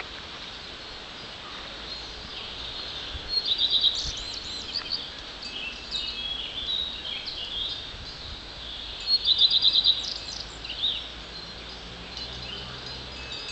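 Songbirds singing: one bird twice sings a loud phrase of fast repeated high notes, about six seconds apart, with softer chirps from other birds between, over a steady high hiss.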